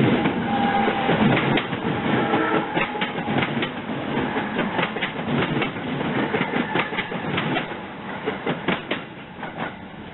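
Train wheels clattering over rail joints and switches, with a few brief wheel squeals; the clatter fades toward the end.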